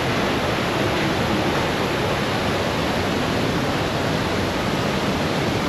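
Steady, loud roar of Iguazu Falls: a huge volume of water crashing down, heard up close as an unbroken rush of noise.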